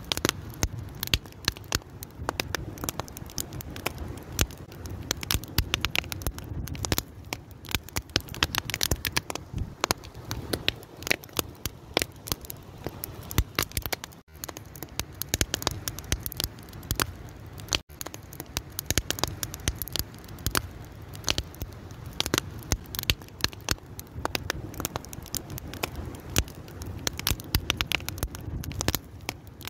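Wood fire burning and crackling, with a dense, irregular run of sharp pops and snaps over a low steady rush of flame. The sound drops out briefly twice around the middle.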